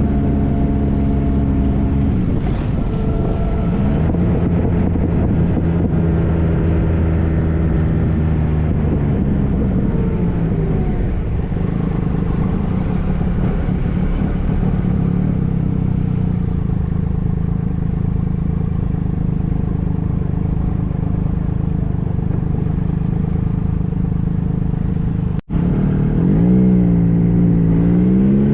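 2013 Triumph Trophy SE's inline three-cylinder engine running under way, its pitch falling and climbing several times as the rider eases off and accelerates, with a steady rush of wind noise. The sound drops out for an instant near the end, then the engine pitch climbs steadily under acceleration.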